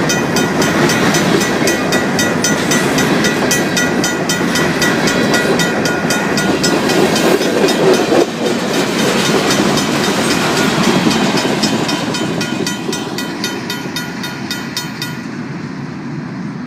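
A RACO mechanical railroad crossing bell rings with rapid, even strokes while a Union Pacific local freight train rolls over the crossing with a clickety-clack. The bell stops about a second before the end, and the train sound fades.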